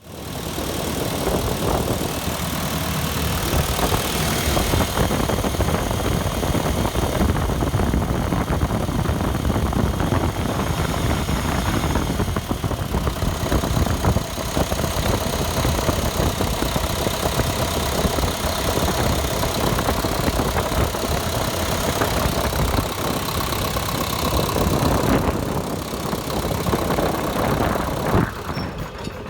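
Liebherr R 934 tracked excavator's diesel engine running steadily, dropping off sharply in level near the end.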